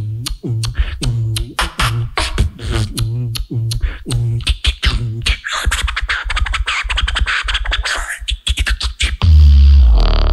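Solo beatboxer performing: a fast rhythmic pattern of vocal bass kicks and clicks, then a stretch of hissing, scratch-like vocal effects. About nine seconds in comes a sudden, very loud, deep held bass note.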